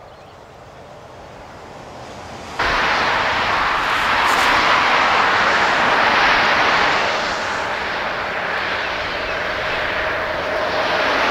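Double-deck electric passenger train running across a concrete viaduct: a steady, loud rush of wheels on rail, with a steady hum coming in over the second half. Before that, a fainter train sound grows slowly louder, then the level jumps up suddenly about two and a half seconds in.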